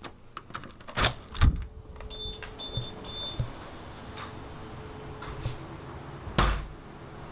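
A few sharp knocks and clunks, the loudest about a second in and another near the end, with three short high beeps between two and three and a half seconds in.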